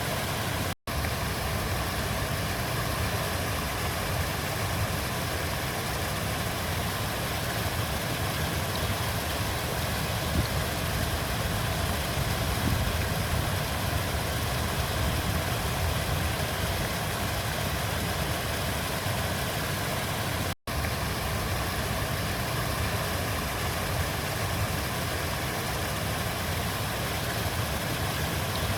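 River water flowing, a steady rushing with a deep rumble underneath. The sound cuts out for an instant twice, about a second in and about twenty seconds in.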